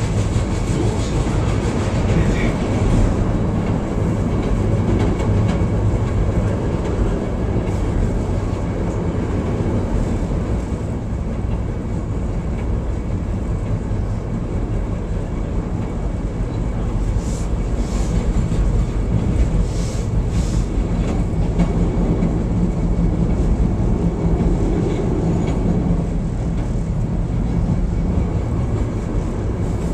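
Chicago 'L' Brown Line rapid-transit train running along elevated track, heard from inside the front car: a steady rumble of steel wheels on rails with a motor hum. A few short high-pitched sounds cut in a little past halfway.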